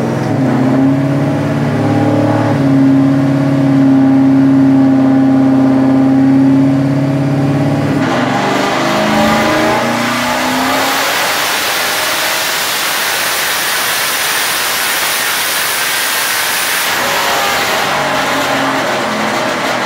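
Twin-turbo 2003 Mustang Cobra's 4.6-litre V8 on a chassis dyno. It runs at a steady speed for about eight seconds, then goes into a full-throttle pull: a loud, rushing roar with a strong high hiss lasting about eight seconds. Near the end it backs off to a steadier note.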